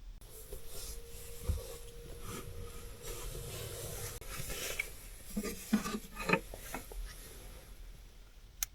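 Rubbing and rustling of things being handled in a small enclosed space, with a faint steady hum in the first half and several light knocks later, then a sharp click near the end.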